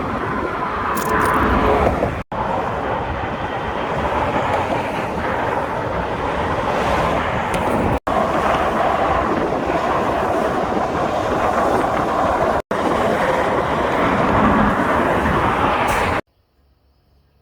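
Loud, steady rumble and rush of a moving vehicle, in several clips joined with abrupt cuts. It stops suddenly about 16 seconds in.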